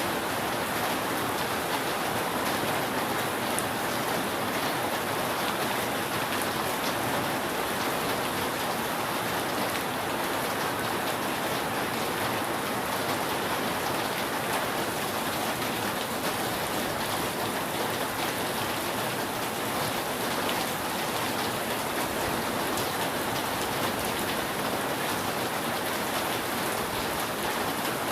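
Steady rain falling on a roof, an even patter without pause.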